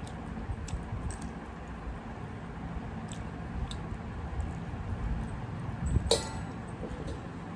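A person chewing a mouthful of rice eaten by hand, with small wet mouth clicks. About six seconds in, one sharp clink with a short ring as the hand knocks the metal plate while gathering rice.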